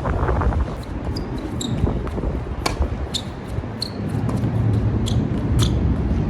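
Wind buffeting the microphone on an outdoor tennis court, with sharp knocks of tennis balls being hit and bouncing, the loudest about a third of the way in, and short squeaks of court shoes.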